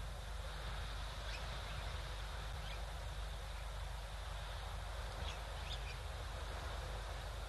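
Wind buffeting the microphone, a steady low rumble under a constant hiss, with a few faint short bird chirps scattered through it.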